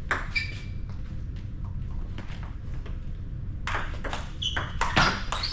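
Table tennis ball being hit back and forth in a rally, sharp clicks off bats and table. A few faint ticks come first, then about three and a half seconds in the hits come quickly one after another, each with a short ringing ping.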